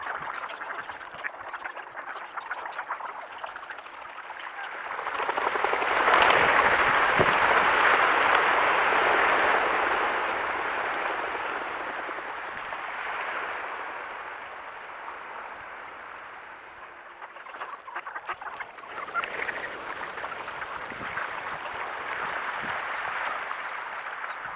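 A large mixed flock of ducks, mallards among them, quacking and calling together in a dense, continuous chorus. It swells to its loudest about five seconds in, eases off, then picks up again near the end.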